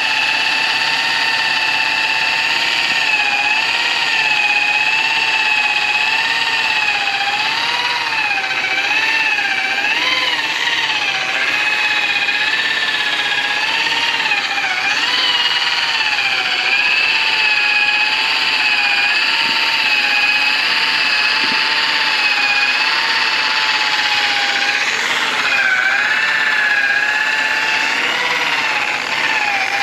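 Electric polisher running continuously on aluminium brightwork, a steady whine that wavers up and down in pitch as the load on the pad changes.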